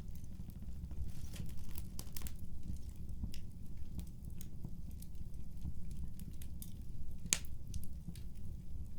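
Fireplace crackling: irregular small pops and snaps over a steady low rumble, with one louder pop about seven seconds in.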